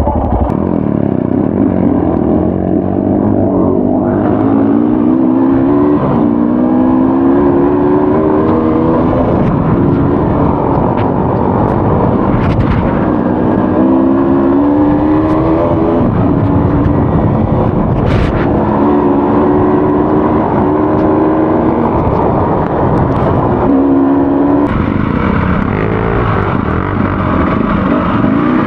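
Off-road enduro motorcycle engine being ridden, its pitch climbing and falling several times as the throttle is opened and closed, over a steady rushing noise.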